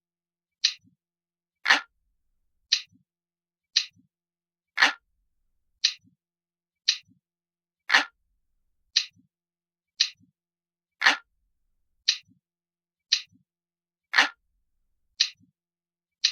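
Ticking clock sound effect: sharp ticks about once a second, every third tick louder than the two between.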